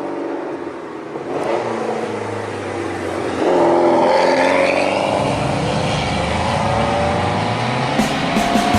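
Classic car engines running. About three and a half seconds in, one gets louder and is revved, its pitch rising and falling.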